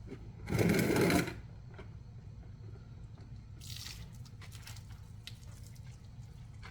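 Ryobi 2000 psi pressure washer spraying in one short burst of under a second, then a briefer, fainter hiss a few seconds later, with faint drips and clicks over a low steady rumble.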